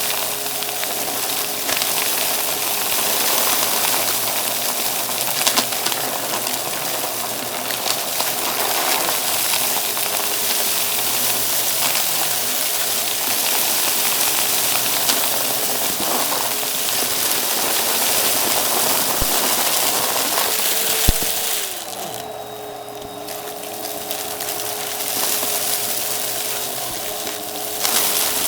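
Vacuum cleaner running with its brushroll on: a steady motor whine under a strong rushing hiss, with scattered sharp clicks of crunchy debris being picked up. About three quarters of the way through the hiss drops away for several seconds, then comes back.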